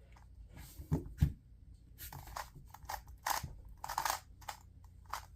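A plastic 2x2 speed cube being turned fast, giving a quick run of clicking, clacking turns. Two sharp knocks come about a second in, before the turning starts.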